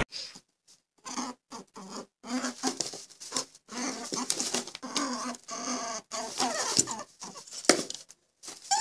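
A run of short, choppy animal calls with clicks and scuffling noises between them.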